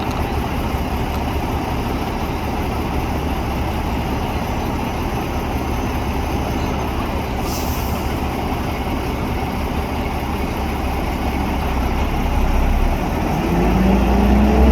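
Heavy-haul truck's diesel engine running steadily at low revs, then revving up near the end, its pitch rising as it gets louder. A brief click about halfway through.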